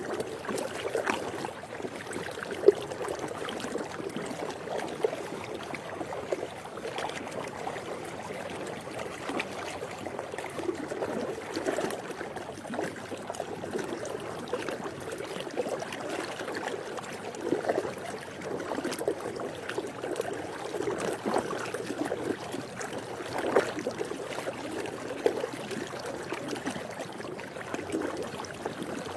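Swimming pool water lapping and sloshing: a continuous watery wash with many small, irregular splashes.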